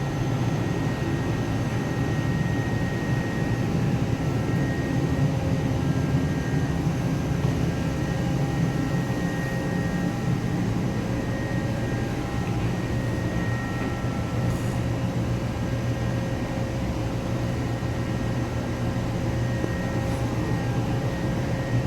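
Steady drone of a ship's machinery and ventilation, a low hum with a few faint steady whining tones in it.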